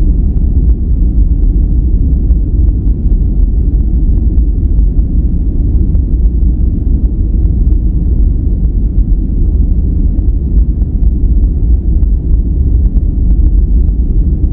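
Steady, loud relaxation noise track sold as white noise. Its energy sits mostly in the deep bass with little hiss above, so it sounds deep and dull, like brown noise, and it holds even throughout.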